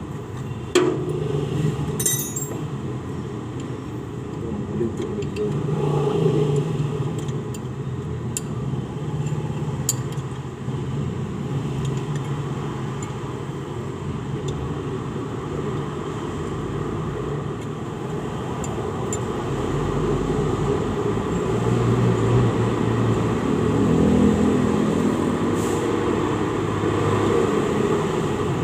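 Continuous low rumble of motor-vehicle noise that swells and eases, with a few sharp metallic clinks in the first couple of seconds and again around ten seconds in.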